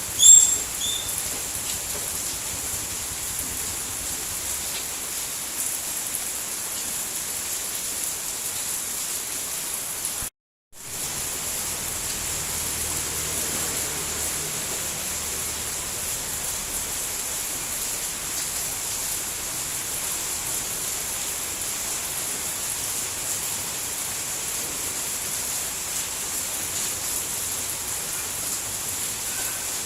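Steady, even hiss of heavy rainfall. A couple of short, high chirps come right at the start. About ten seconds in, the sound cuts out completely for about half a second and then resumes.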